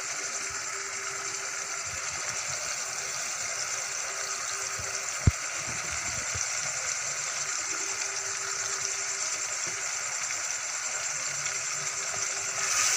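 Onions and tomatoes frying in ghee in a pan, a steady sizzle. A single sharp click comes about five seconds in, and the sizzle grows louder near the end.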